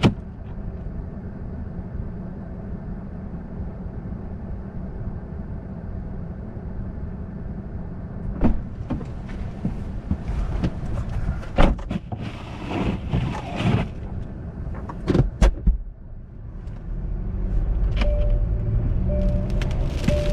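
Car driving, with a steady low road and engine rumble. Past the middle comes a run of sharp knocks and clicks. Music comes in near the end.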